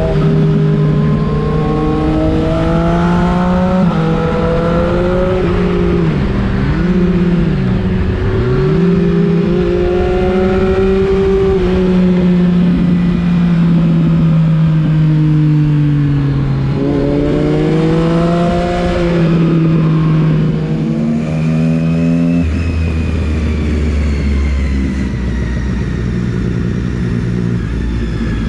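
Sport motorcycle engine revving hard while riding, its pitch climbing in steps through the gears, dropping sharply and picking up again twice, then holding steady before another climb and a drop to a lower, steady note near the end. A steady rush of wind noise lies underneath.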